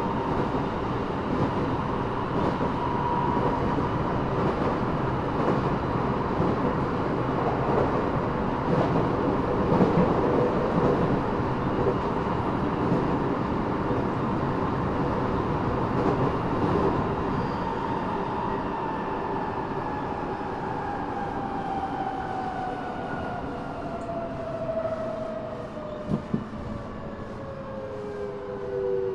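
Eidan 6000-series subway motor car running, its Mitsubishi three-level VVVF inverter (taken from a 7000-series car) whining over the steady rumble of the wheels and floor. In the last third the inverter and motor tones fall steadily in pitch as the train slows.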